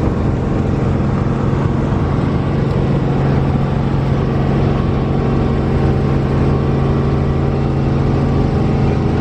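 Helicopter engine and rotors heard from inside the cabin in flight: a loud, steady drone with a strong low hum.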